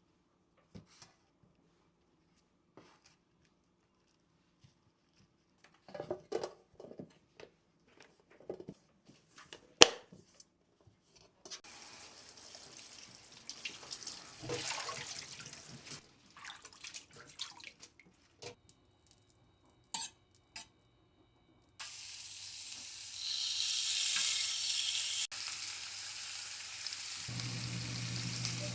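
Kitchen cooking sounds: scattered clicks and knocks of utensils and containers being handled, then tap water running for a few seconds. In the last third food sizzles steadily in a frying pan, and a low steady hum joins near the end.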